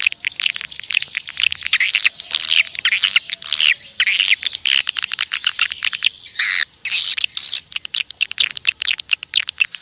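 Edible-nest swiftlets twittering: a dense, unbroken stream of rapid high chirps and trills from many birds. This is the swiftlet call used to lure the birds.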